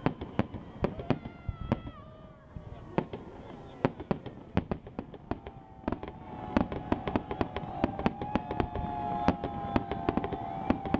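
Fireworks display: aerial shells bursting in a fast, irregular run of bangs and crackles. Falling whistles sound in the first couple of seconds, and a long steady whistle runs through the second half.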